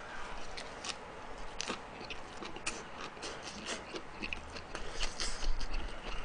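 Chewing a mouthful of perilla-leaf and radish wrap with chicken bulgogi: irregular wet clicks and crunches.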